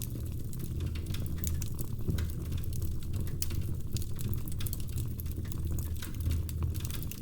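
Wood fire burning in a fireplace: a steady low rumble of flames with frequent small sharp crackles and pops from the logs.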